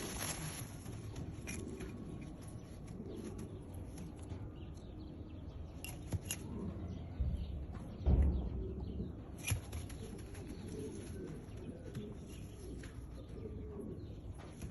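Domestic pigeons cooing steadily, with wing flaps and scattered clicks, and a louder low thump about eight seconds in.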